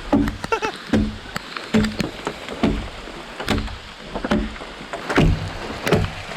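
Wood being cut by hand in a steady rhythm, a stroke a little under once a second, each with a sharp knock.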